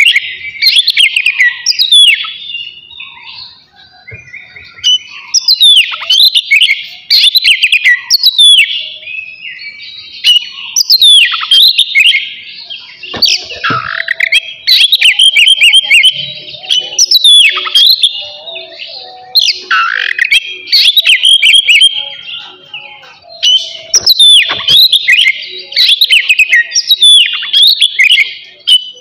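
Oriental magpie-robin (kacer) singing loudly: phrase after phrase of sharp falling whistles and rapid trills, with a new phrase every second or two.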